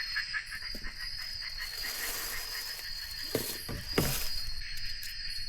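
Rainforest insects calling: a steady high-pitched drone, with a rapid pulsing call of about five pulses a second over the first second and a half. Two sharp knocks come about three and four seconds in.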